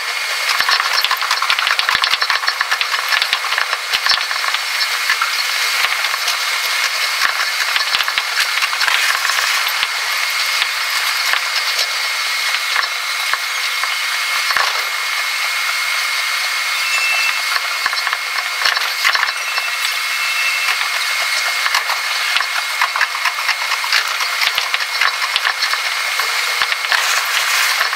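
Running noise of a Tobu Tojo Line electric train heard from the driver's cab, sped up about six times for a timelapse. It is a dense, high-pitched clattering hiss of rapid clicks, with a faint steady high tone over it.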